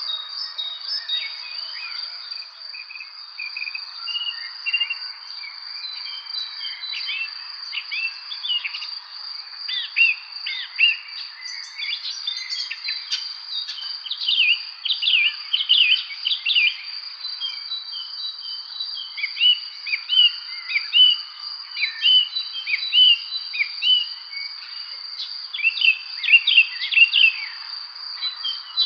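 Evening spring ambience: several songbirds chirping and singing in quick short phrases over a steady, continuous high insect trill. The bird calls grow busier about a third of the way in.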